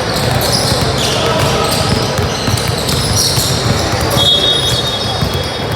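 Youth basketball game on an indoor court: the ball bouncing, with many short high squeaks through it and a steady high squeal lasting about a second, about four seconds in. Voices of players and spectators are heard under it.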